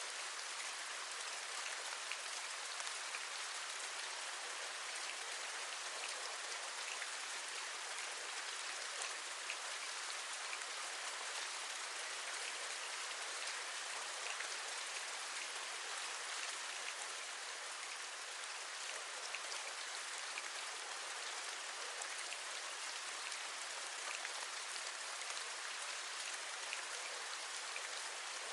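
Steady rain falling, with many small raindrop taps scattered through an even hiss.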